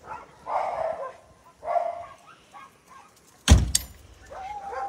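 Dogs barking twice, then a loud sudden thump about three and a half seconds in, followed by a steady whine-like tone near the end.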